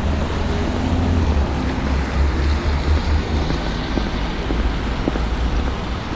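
Steady low rumble and hiss of wet-weather city street ambience: traffic on rain-soaked roads with wind on the microphone.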